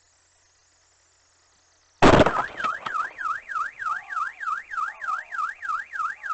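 A sudden loud bang about two seconds in, followed at once by a car alarm warbling up and down about three times a second.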